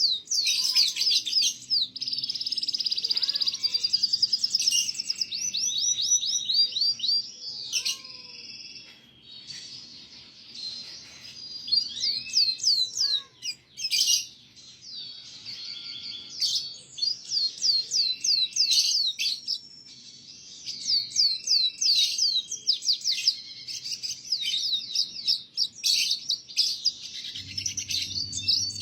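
Canary singing a long, fast song of rapid trills and rolling chattery phrases, with a few lower slurred whistles and a softer pause about a third of the way in. It is the continuous, energetic 'gacor' canary song played as a tutor song for young canaries.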